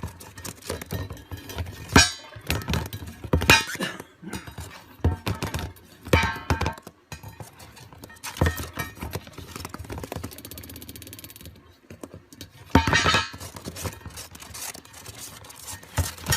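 A string of irregular knocks and clinks, hard objects striking one another, some with a brief ringing tone.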